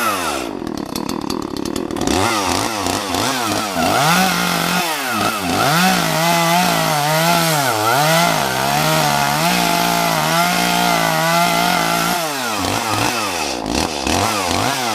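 Chainsaw revving up and cutting through a small tree trunk, its engine held at high speed with the pitch wavering under load for about eight seconds, then dropping back and revving again near the end.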